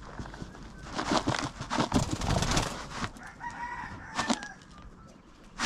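Chickens clucking and calling, with scuffling noise in the first few seconds and a short held call about three and a half seconds in.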